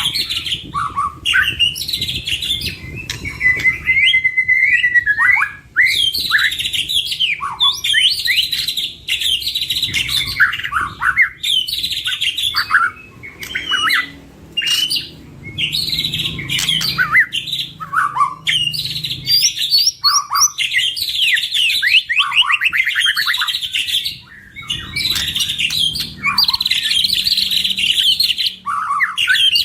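Two white-rumped shamas (murai batu) singing hard in long, varied phrases of loud whistles, fast trills and rapid chattering notes, with only brief pauses.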